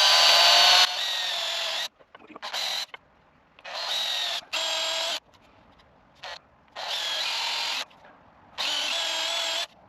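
Cordless drill boring 16mm holes in chestnut wood, running in repeated bursts of about a second each with its motor whine, separated by short pauses.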